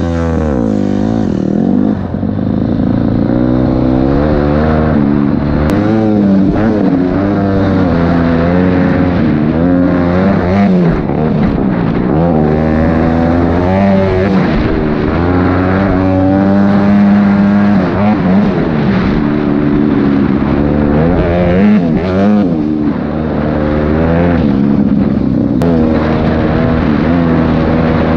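Dirt bike engine, a Honda CRF250L's single-cylinder four-stroke, revving up and easing off again and again as the bike is ridden, its pitch climbing and dropping through the gears.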